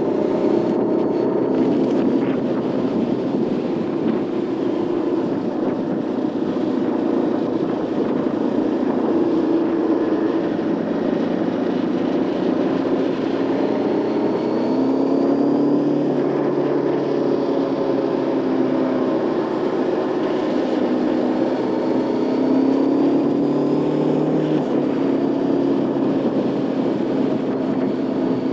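Motorcycle engine running under way, its pitch rising and falling with the throttle and dropping suddenly at a gear change near the end, over steady wind noise on the microphone.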